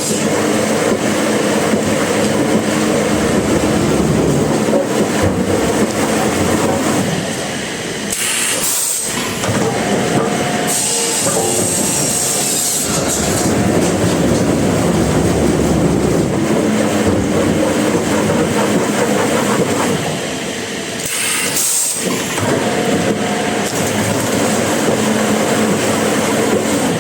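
Sawmill machinery running steadily, with short passages of high hiss about eight, eleven and twenty-one seconds in.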